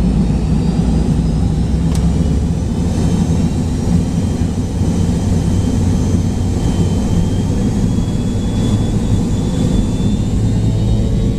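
McDonnell Douglas MD-83 cabin noise from the rear of the cabin: the tail-mounted Pratt & Whitney JT8D turbofans are running as a steady heavy rumble, with faint thin high tones that slowly rise in pitch.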